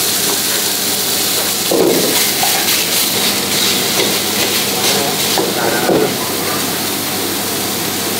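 Minced meat sizzling in a hot wok, with a metal ladle scraping and knocking against the pan a few times as it is stirred.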